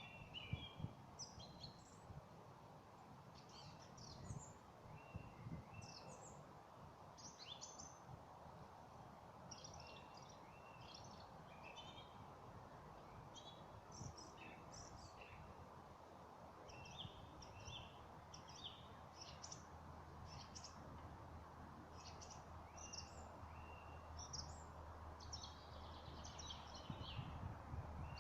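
Woodland songbirds singing faintly in short, quick chirping phrases, one after another, over a steady low background hiss.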